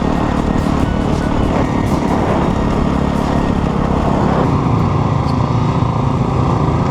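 Off-road vehicle engine running steadily under way, with wind and rumble from riding over rough desert ground.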